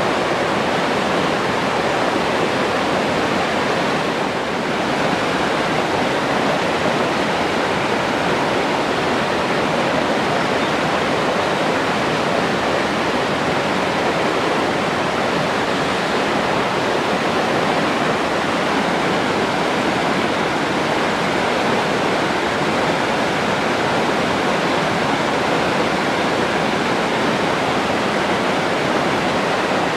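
Forest stream rushing over its bed: a steady, even wash of flowing water with no pause.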